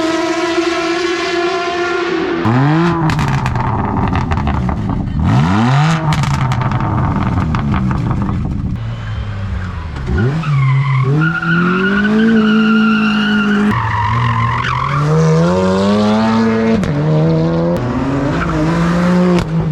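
Kawasaki ZX-10R inline-four engine revving hard through an Akrapovic full-system exhaust, its pitch sweeping sharply up several times and holding high, with rapid crackles and pops from the exhaust.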